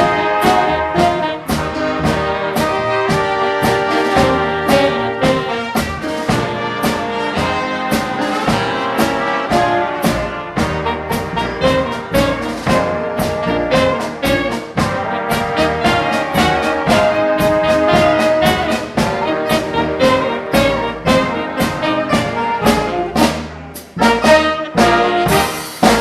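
Live big band playing, trumpets and trombones to the fore over a steady drum beat, with a cymbal crash near the end.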